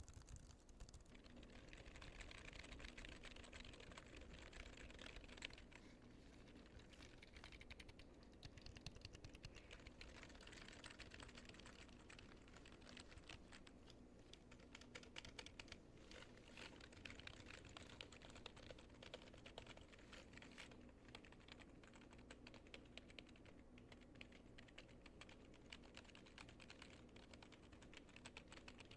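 Buttons pressed and clicked in quick, continuous succession: a dense, quiet run of small clicks, much like typing.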